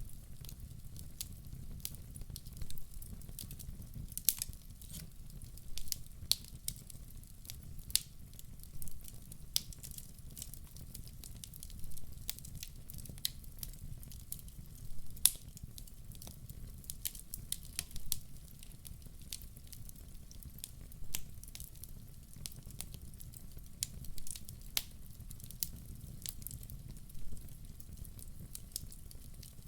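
Wood fire burning in a fireplace: irregular sharp crackles and pops from the burning logs over a low, steady rumble of flame.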